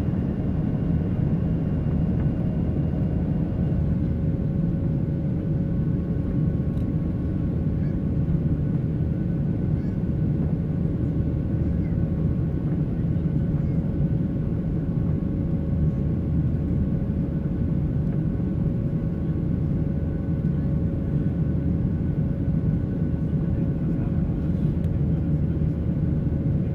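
Boeing 737-800's CFM56-7B jet engines running steadily, heard inside the cabin: a deep, even rumble with a few steady whining tones above it.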